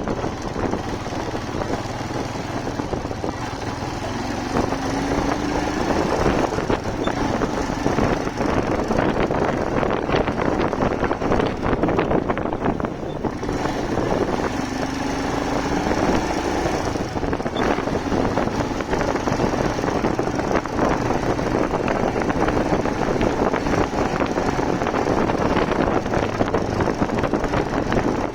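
Motorcycle engine running on the move, buried under wind rushing over the microphone; twice the engine note rises as the bike picks up speed.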